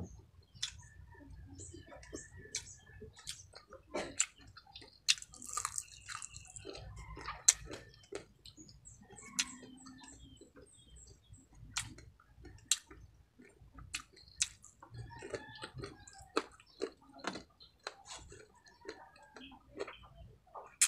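Close-up mouth sounds of chewing crispy fried baby crabs: irregular crunches and sharp crackles as the fried shells break, with smaller wet clicks between them.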